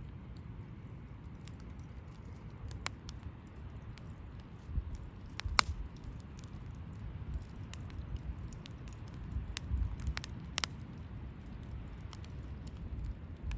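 Wood campfire burning and crackling, with a few sharp pops spread out, the loudest about halfway through, over a steady low rumble.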